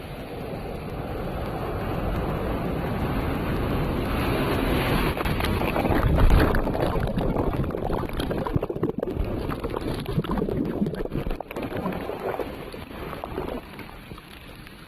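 Wind buffeting the microphone at the seashore, a rough rumble that swells to its loudest about six seconds in and then eases.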